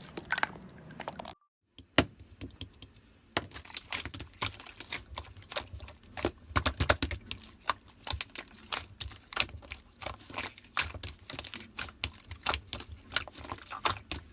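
Slime being pressed and kneaded by hand, giving off dense, irregular crisp clicks and pops that start in earnest about three seconds in.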